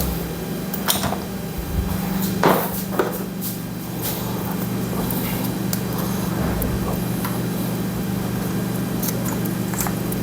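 A few light clicks and knocks of metal parts being handled as a cam chain guide is lowered into a motorcycle engine, over a steady low hum.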